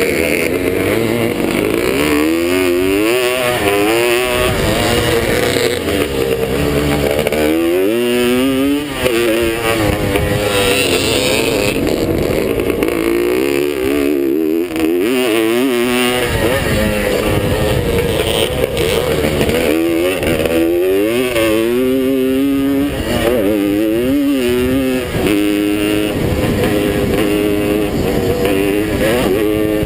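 Vintage two-stroke Suzuki motocross motorcycle engine racing, its pitch climbing and dropping again and again as the rider twists the throttle and shifts through the turns, heard from an onboard camera over steady wind and track noise.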